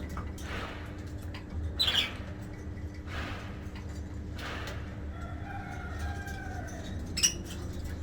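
Pet budgies fluttering and rustling, with a few short chirps and a sharp click near the end, over a steady low hum.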